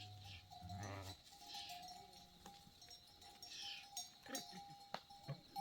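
Sheep and goats: one brief bleat about a second in, with faint bells clinking and a few light knocks.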